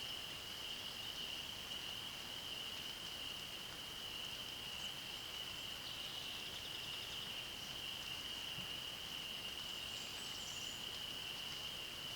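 A continuous, high-pitched chorus of calling animals that holds steady throughout, over a faint even hiss. A short run of fine ticks comes about six seconds in.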